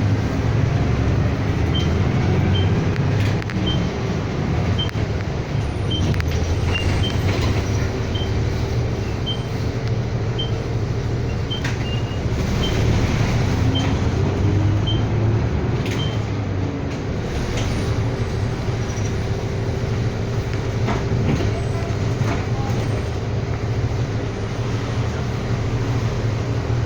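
City bus interior while driving: a steady engine and road rumble. For about the first half, a short high indicator beep repeats about twice a second, as a turn signal does, then stops.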